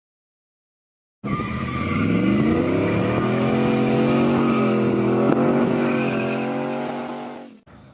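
A motor vehicle engine revving up and then holding at high rpm. It starts suddenly, climbs in pitch over the first second, stays steady and then cuts off abruptly near the end.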